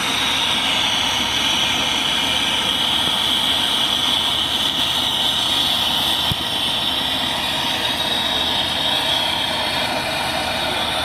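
Brazing torch flame burning with a steady hiss.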